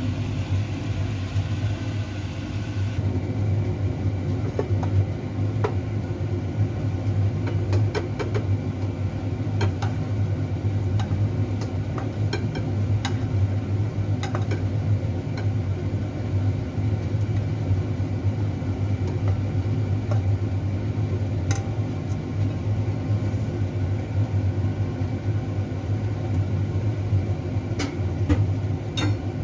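Steady low electric motor hum with a strong even drone, crossed now and then by light clicks and taps.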